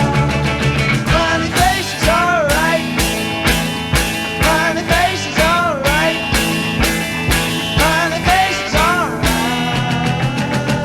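Late-1960s British psychedelic rock instrumental passage: a steady drum beat of about two hits a second under a lead line of repeated swooping, bending notes.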